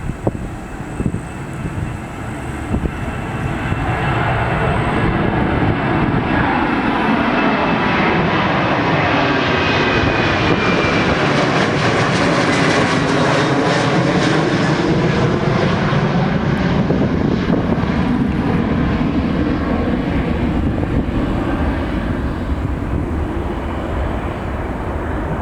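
Boeing 737-900 jet, with CFM56-7B turbofans, climbing out at takeoff thrust and passing by. The roar builds over the first few seconds, is loudest around the middle with sweeping tones that shift in pitch as it goes past, then slowly fades.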